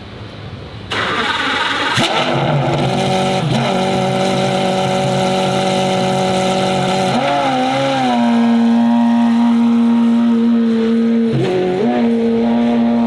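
Car engine held at steady high revs, starting abruptly about a second in, with short dips and changes in pitch a few times.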